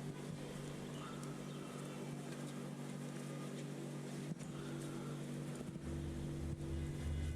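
A steady low mechanical hum, like an engine or motor running, with faint brief high whines about a second in and again past the middle.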